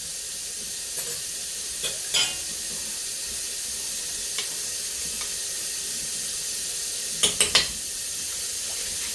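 Steady hiss of pots cooking on a stovetop, with a few light clinks of a utensil on a pot in the first half. Near the end come three quick sharp taps, like a spoon knocked on a pot rim.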